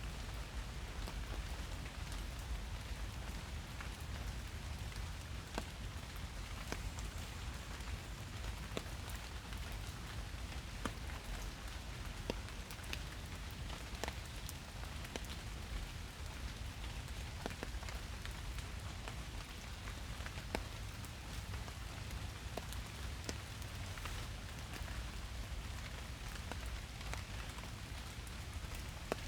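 Steady rain falling in a forest, an even hiss with many distinct drops ticking close by.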